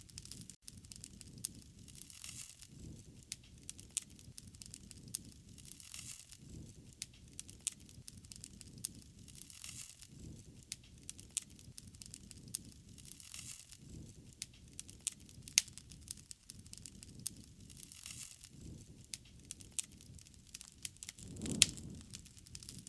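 Wood fire crackling, with frequent sharp pops and snaps over a low rushing sound that swells every few seconds.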